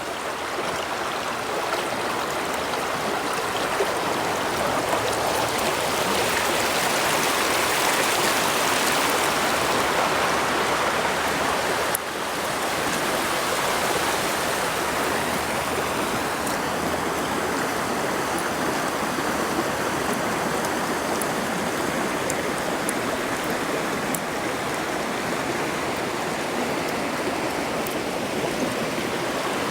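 Brook water flowing steadily, a continuous even rush of running water.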